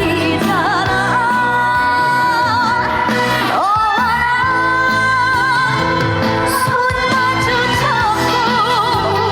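Trot song performed live: a woman's voice holds long notes with vibrato over a band backing track, sliding up into a long held note about three and a half seconds in.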